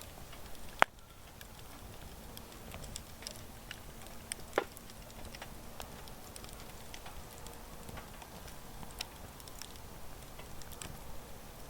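Wood campfire crackling, with scattered small pops and two sharper snaps, one about a second in and another about four and a half seconds in.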